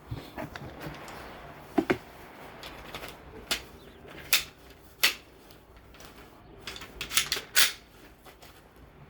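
Irregular sharp clicks and knocks of a polymer-and-metal pistol and its Roni conversion chassis being handled and fitted together. There is a double knock about two seconds in, single clicks spaced a second or so apart, and a quick cluster of clicks near the end.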